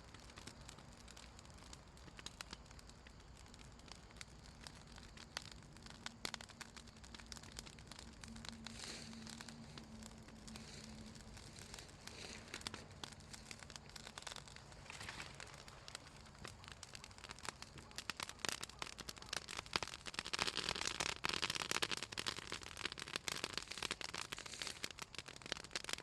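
Bonfire of pruned Southern magnolia branches crackling and popping, the oily wood snapping in quick irregular clicks. The popping grows denser and louder, with a hissing flare, about twenty seconds in.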